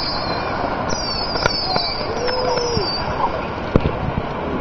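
Fireworks going off, with a few sharp pops and high, falling whistles, over a steady noisy background.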